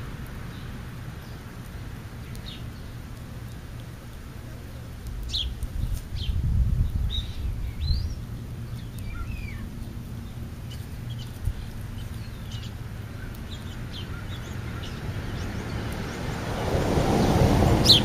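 Small birds chirping in short, scattered calls over a low rumble that swells about six seconds in and again near the end.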